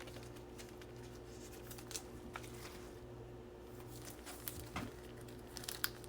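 Faint rustles and scattered light clicks of baseball cards being handled and flipped through, over a steady low hum.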